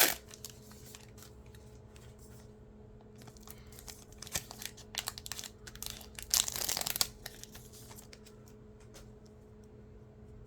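Plastic wrapper of a Topps basketball card pack torn and crinkled in short bursts of crackling, with a sharp burst at the start and the loudest crinkling about six to seven seconds in. A faint steady hum runs underneath.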